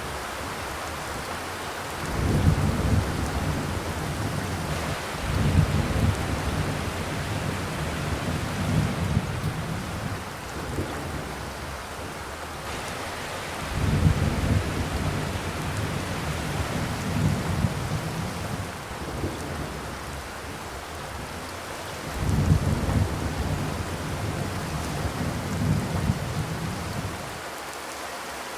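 Steady rain on a zinc roof, a continuous hiss, broken by four loud low rumbles that each swell for a few seconds, about 2, 5, 14 and 22 seconds in.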